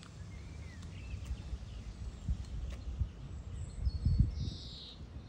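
Outdoor background with a low rumble and a few dull bumps, over which small birds chirp briefly now and then.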